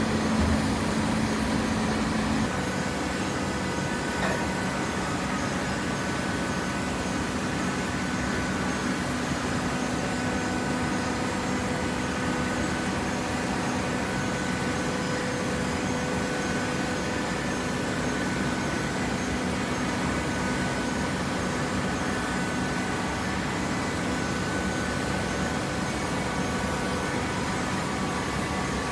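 PET bottle baler running: a steady machine hum with several constant tones over a noise bed. The lowest tone shifts slightly about two seconds in.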